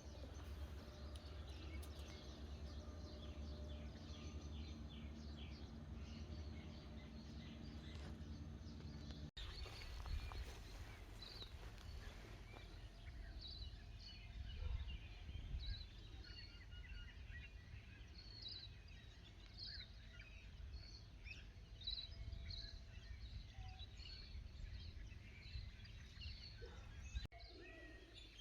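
Small birds chirping and calling faintly in short, scattered notes over a steady low rumble of wind or handling noise. The sound drops out briefly twice, about nine seconds in and near the end.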